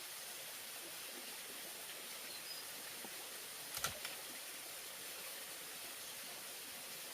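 Steady high hiss of outdoor background with a quick cluster of two or three sharp clicks or knocks about four seconds in.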